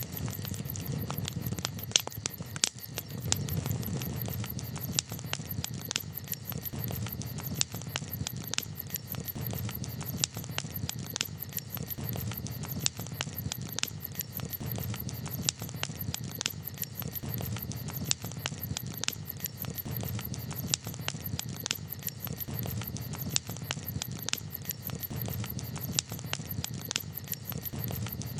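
Wood fire crackling, with irregular sharp snaps and pops over a steady low rumble.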